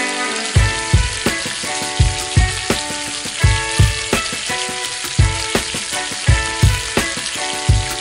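Onions and spice masala frying in oil in a pan, a steady sizzle. Over it, background music with sustained notes and a regular beat.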